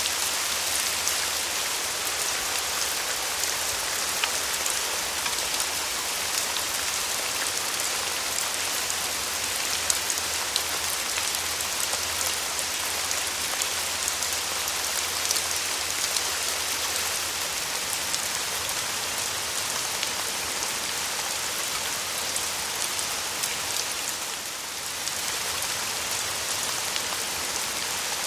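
Steady rain falling, an even hiss with many individual drops ticking sharply on a surface; it eases briefly about three-quarters of the way through.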